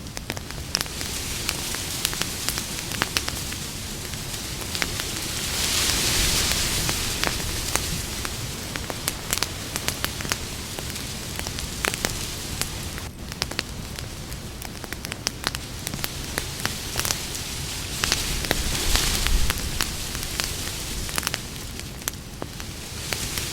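Campfire crackling, with many sharp pops and snaps over a steady hiss of burning wood. The hiss swells louder twice, about six seconds in and again near nineteen seconds.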